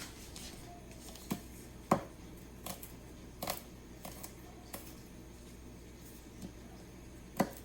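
Garlic cloves being peeled by hand: scattered light clicks and taps, with two sharp knocks, the loudest about two seconds in and near the end.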